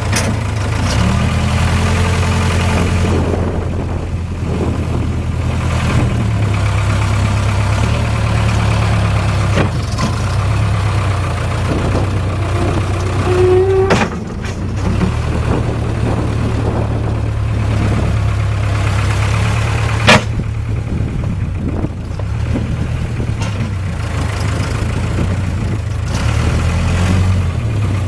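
1994 Case 580 Super K backhoe loader's diesel engine running steadily, its note shifting several times. Two sharp clanks stand out, one about halfway through and a louder one about two-thirds through.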